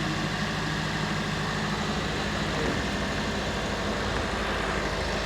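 Suzuki Brezza engine idling steadily, freshly decarbonised.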